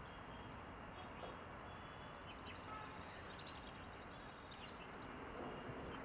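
Faint, steady outdoor background noise with a few small, high bird chirps scattered through it.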